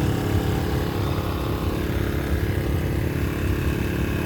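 Portable generator's small engine running at a steady speed, a constant hum.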